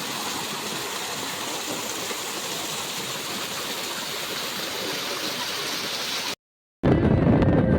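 Steady hiss of rushing water from a forest stream or waterfall. Near the end it cuts off abruptly, and after a brief silence wind buffets the microphone.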